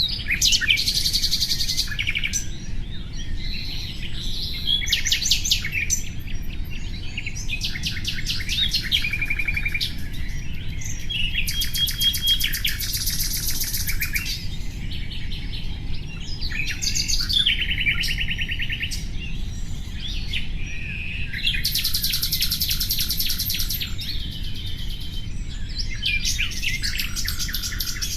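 Nightingale singing a run of varied phrases, each a second or two long, built of rapid repeated notes and trills with short pauses between them, over a steady low background rumble.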